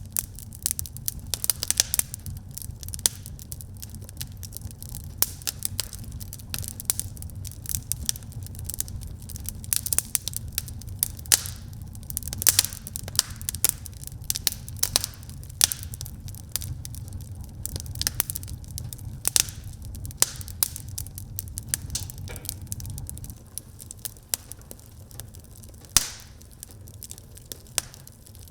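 Fire burning in a fireplace, crackling with many irregular sharp pops over a low rumble; the rumble drops away about 23 seconds in, and one of the loudest pops comes near the end.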